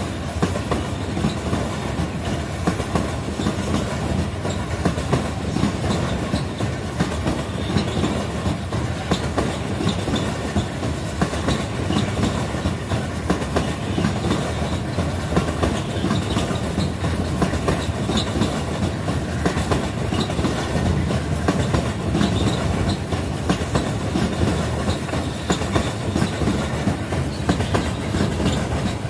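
A train rolling steadily past, its wheels clattering continuously over the rail joints with no let-up.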